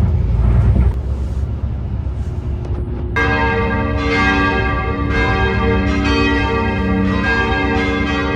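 A low rumble, then about three seconds in, bells begin ringing, struck roughly once a second with a long ring between strikes.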